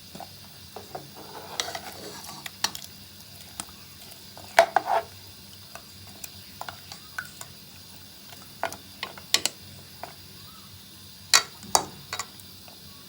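A spoon stirring chunks of chicken and potato in a cooking pot, scraping and knocking against the pot at irregular intervals, with sharper clinks about a third of the way in and near the end.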